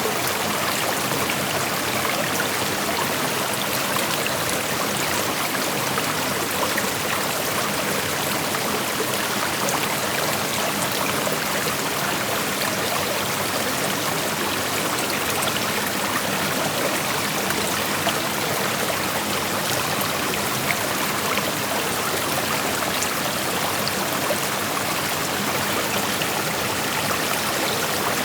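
Shallow creek flowing steadily over rocks: an even, continuous rush of water.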